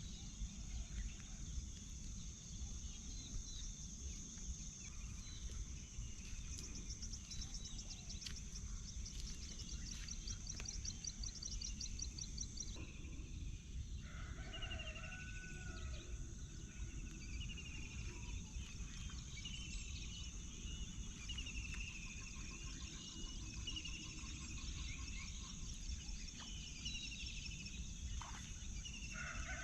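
Dawn countryside ambience: many birds calling with short, repeated falling notes over a steady high insect drone and a constant low background rumble.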